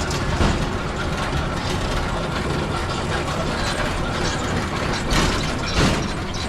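Rail bike (velorail) rolling along old rails: steady clatter of its wheels and pedal drive, with a few louder knocks about half a second in, about five seconds in and near the end.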